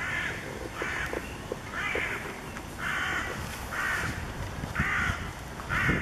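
A bird calling a series of seven short calls, evenly spaced about one a second and alike in pitch. These are the repeated calls of the 'unusual bird song' being filmed.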